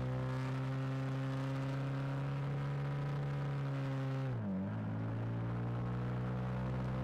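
KTM 990 Super Duke's V-twin engine pulling at steady revs through a long corner, heard from onboard, its note sagging slightly. About four and a half seconds in the note briefly drops and comes back, then holds steady again.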